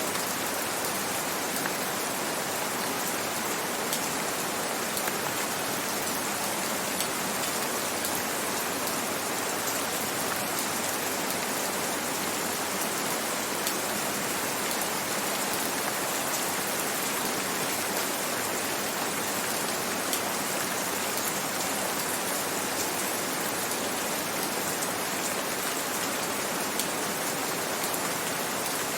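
Steady rain falling, a dense even hiss with faint scattered drop patters.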